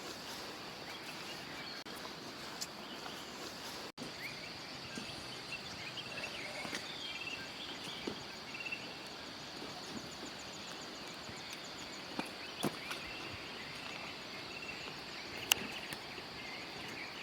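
Outdoor ambience: a steady high-pitched insect drone with scattered short bird chirps and a few sharp clicks.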